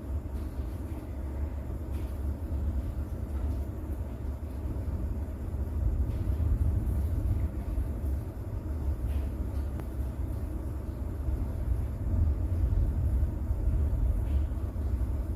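Rain-and-thunder ambience: a deep, steady rumble under a soft haze of rain with faint scattered drop ticks, swelling about six seconds in and again around twelve seconds.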